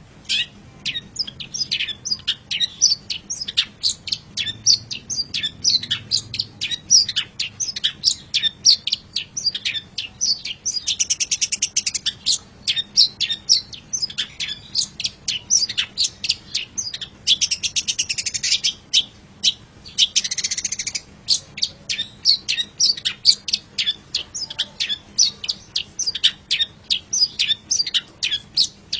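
Long-tailed shrike (cendet) singing a continuous, rapid run of short, sharp chirping notes. Longer buzzy, rattling phrases come in about eleven, seventeen and twenty seconds in.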